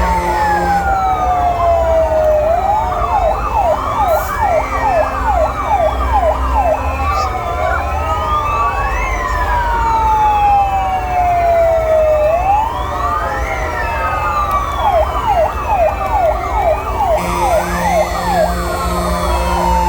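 Several fire engine sirens sounding at once: slow wails that sweep down in pitch overlap with fast yelps cycling about three times a second, over a low engine rumble.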